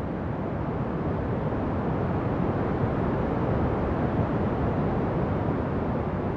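Ocean waves washing in a steady, low rush, swelling a little through the middle and easing off near the end.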